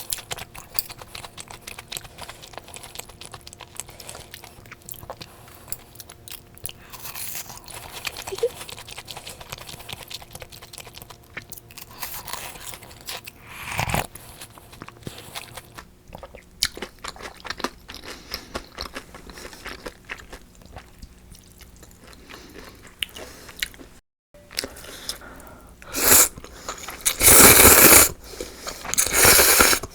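Close-miked eating: crunchy bites and chewing of crisp fried food, with louder, longer crunching in the last few seconds.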